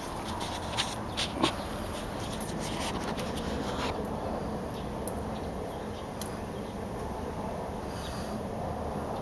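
A Honda Dream 50 single-cylinder four-stroke engine, bored up to 89 cc, running steadily with an even buzz. A few light clicks in the first second and a half.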